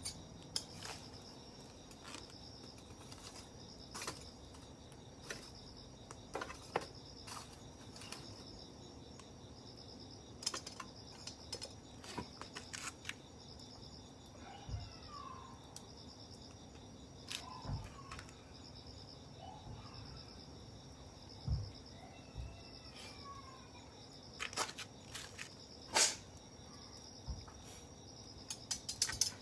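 Wood campfire crackling, with sharp irregular pops and snaps. Behind it, insects trill steadily and high with a faint pulse.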